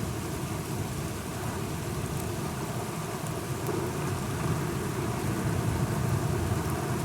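Steady rain with scattered drops ticking, under a low rumble that swells louder in the second half.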